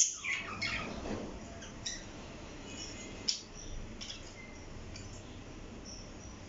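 Pet parrot giving short high chirps and squeaks, the longest cluster in the first second. A sharp click at the very start is the loudest sound, and single brief chirps and ticks follow now and then.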